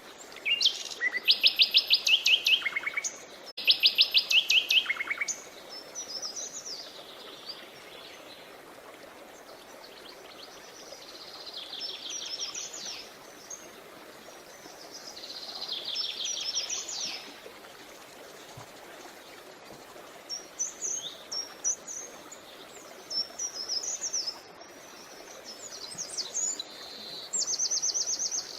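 Songbirds singing over the steady rush of a creek: two loud, rapid trills in the first five seconds, then shorter chirping phrases, and another fast trill near the end.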